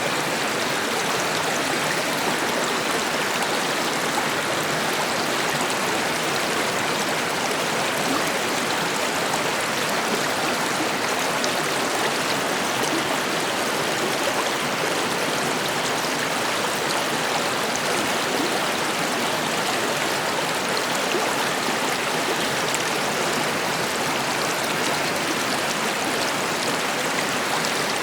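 River water flowing: a steady, even rush of running water that holds the same level throughout.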